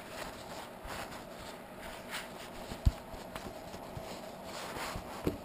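Scattered light knocks and handling noises, with one sharp low thump about three seconds in and a shorter thump near the end.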